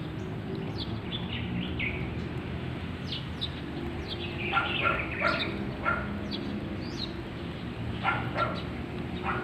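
Small birds chirping in short, quick, high calls, with louder clusters of chirps about halfway through and again near the end, over a steady low background rumble.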